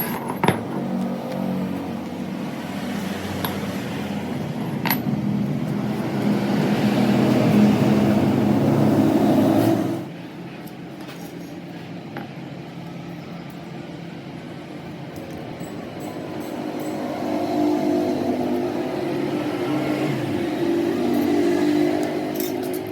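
Motor vehicle engine running, growing louder until about ten seconds in, where it drops off suddenly, then building up again later on.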